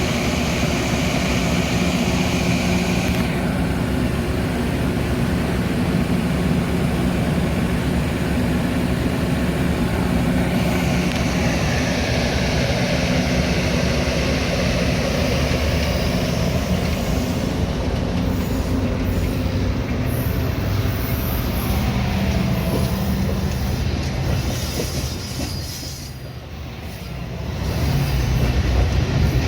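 Metra commuter train running, a steady loud rumble with a low hum and some wheel noise; the sound dips briefly near the end, then comes back louder.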